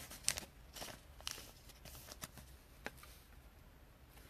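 Faint rustling and a few short crisp clicks of trading cards being handled and slid into sleeves.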